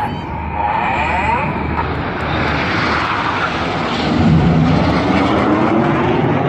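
Jet roar of the Red Arrows' BAE Hawk T1 trainers, with their Adour turbofans, flying an aerobatic manoeuvre overhead. The roar grows louder about four seconds in as the jets come closer.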